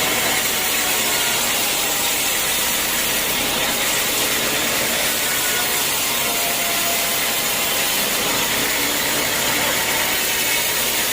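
Sawmill saw running steadily through a teak log, a continuous hissing machine noise that does not change.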